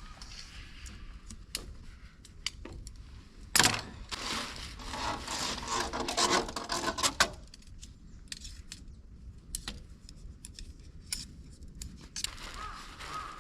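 Objects being handled: a sharp knock about three and a half seconds in, then a few seconds of rustling and crinkling, with scattered small clicks and taps before and after.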